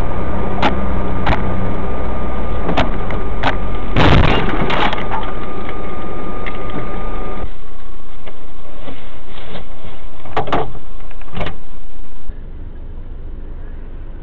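Car driving with steady road and engine noise, hit by a loud collision impact about four seconds in, with sharp knocks and cracks before and after. The noise drops away abruptly near the end.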